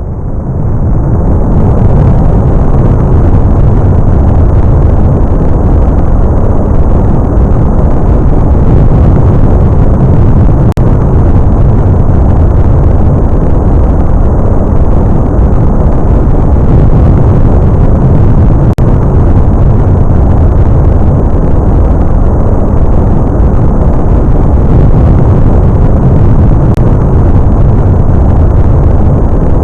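SSLE3 hydrogen-oxygen (hydrolox) rocket engine static fire: the noise builds to full level within the first second or so, then the engine fires with a loud, steady, deep roar of rushing noise.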